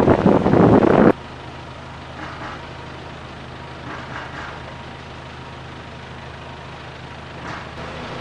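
Loud wind buffeting the microphone for about the first second, cutting off suddenly, then a large vehicle's engine idling with a steady low hum.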